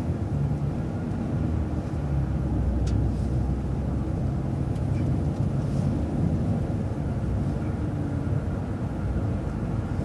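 Transit bus engine and drivetrain running as the bus drives along, a steady low rumble with road noise; a faint click about three seconds in.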